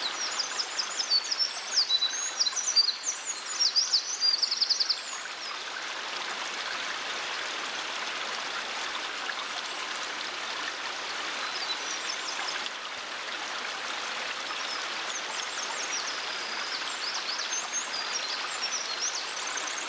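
Eurasian wren singing a long, rapid, high song of twitters and trills over the first five seconds, then fainter song again near the end, over the steady rush of a stream.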